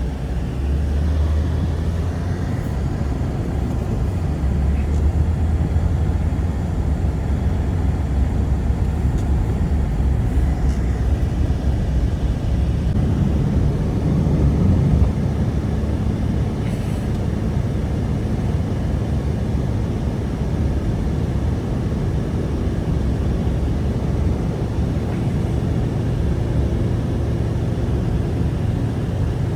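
Blizzard wind blowing in a steady low roar.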